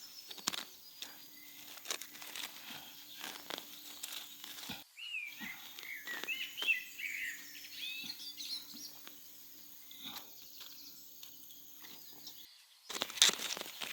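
Short bird chirps with gliding pitch, a few seconds in, over scattered light clicks and rustling and a faint steady hum.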